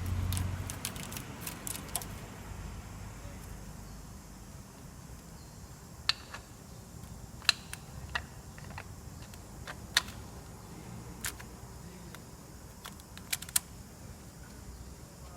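Scattered sharp metallic clicks and clinks, about a dozen spread irregularly, as metal engine parts or tools are handled. A low rumble runs through the first couple of seconds.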